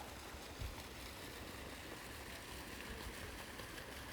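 Steady rushing of water running into a fish pond, with a soft low thump about half a second in.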